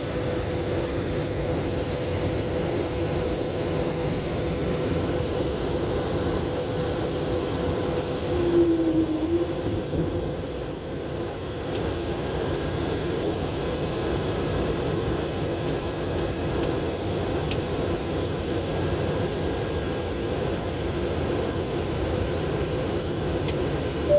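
Steady cabin noise of an airliner in descent: engine and airflow noise with a steady hum. About eight and a half seconds in, a brief, slightly louder sound rises above it.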